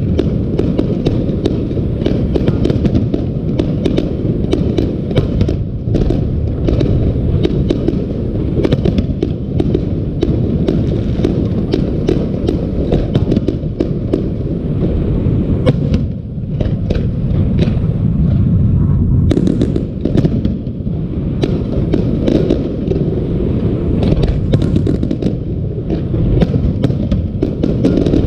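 Fireworks display: a dense, continuous barrage of bursts that run together into a rumble, with many sharp pops throughout and brief lulls twice in the middle.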